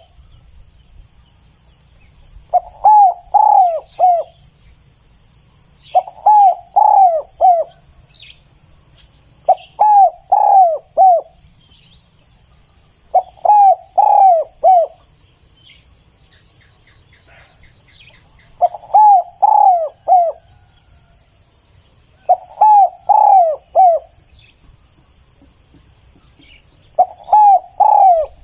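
Spotted dove calling: about seven short cooing phrases of three or four low notes each, repeated every few seconds with one longer pause in the middle. Insects trill steadily and faintly behind.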